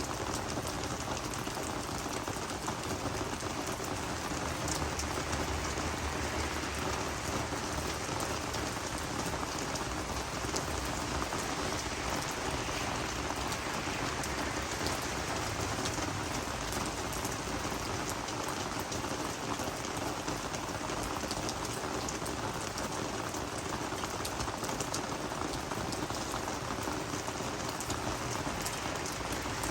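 Steady rain falling on garden vegetables and flowers, a constant patter of drops on the leaves.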